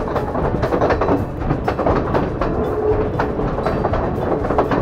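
Passenger train running along the track, heard from outside an open carriage window: wheels clattering over the rails with rapid, irregular clicks and a steady rumble and rattle of the carriages.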